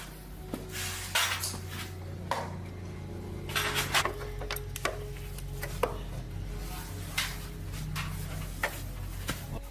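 Irregular light metallic clinks and knocks, about a dozen, of tools and small metal parts being handled in a workshop, over a steady low hum.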